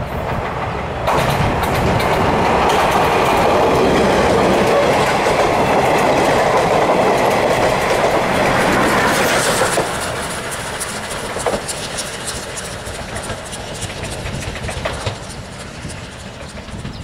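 Steam-hauled passenger train on the Moka Railway rolling past close by, its wheels clattering over the rail joints. It grows loud about a second in and fades from about ten seconds, with a few single wheel clicks as the last coaches go by.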